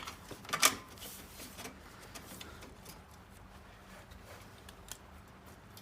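A few sharp metal clicks and knocks, the loudest about half a second in, then faint scattered ticks as motorcycle exhaust head pipe pieces and band clamps are handled and lined up.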